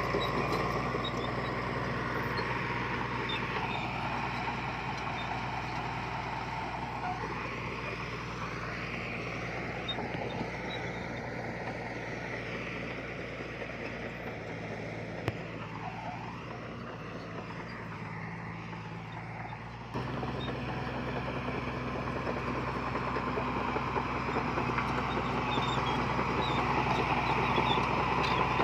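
Diesel engine of heavy earthmoving equipment running steadily, with a higher tone that wavers up and down as the machine works. About two-thirds of the way through, the sound steps up suddenly and gets louder.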